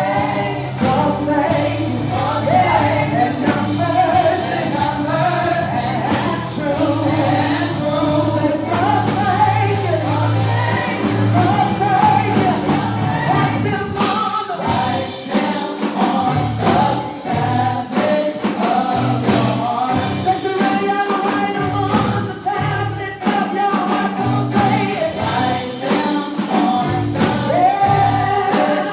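Live gospel worship music: a choir of singers over a band, with a steady drum beat.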